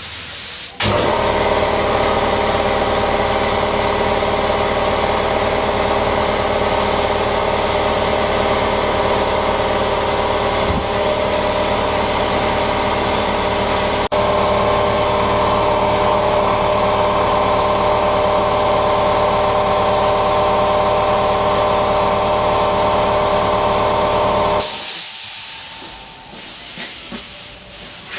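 Spray-painting air equipment running: a steady loud hiss with a humming motor tone starts about a second in and cuts off near the end, leaving a fainter hiss.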